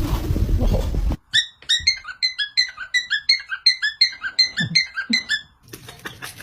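A parrot giving a rapid, even series of high, squeaky chirps, about four a second, after a second of low rumbling noise.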